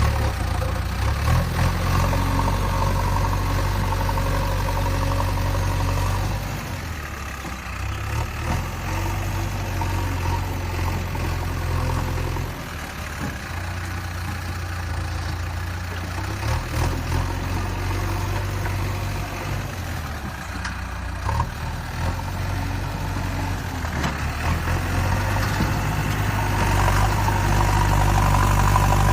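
An engine running steadily at idle with a low hum. It drops back twice and grows louder near the end.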